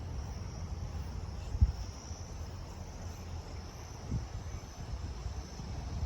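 Wind buffeting a phone's microphone in low, uneven gusts, with two sharper knocks about one and a half and four seconds in. A faint steady high-pitched hiss sits above it throughout.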